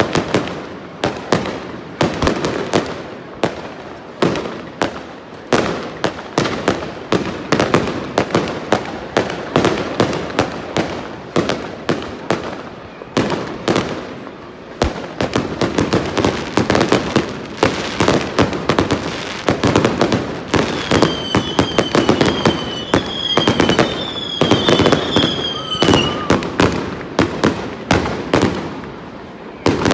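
Fireworks display: a dense, continuous barrage of bangs and crackles from shells bursting overhead. About two-thirds of the way through, a run of short, high whistling tones rides over the bangs for several seconds.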